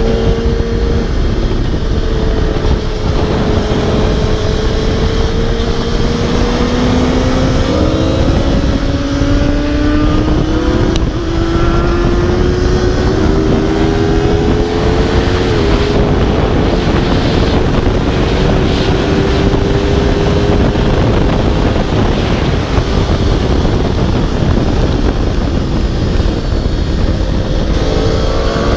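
Aprilia RSV4 sportbike's V4 engine at speed on track. The engine note climbs through several small upshift steps, then eases off and falls for a long stretch before climbing again near the end, under a heavy rush of wind on the microphone.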